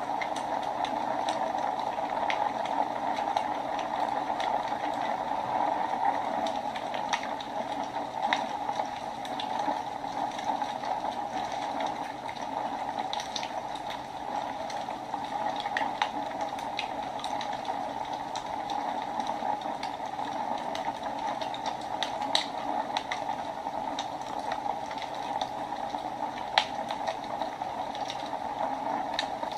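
Wood fire burning in a fireplace: a steady hiss with scattered sharp crackles and pops, one louder pop near the end.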